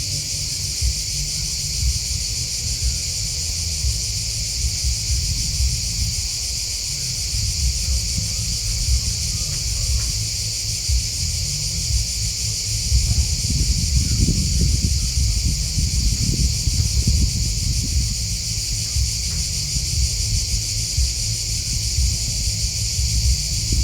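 Steady, high-pitched chirping of an insect chorus of grasshoppers and crickets, under a low rumble that grows stronger for a few seconds about halfway through.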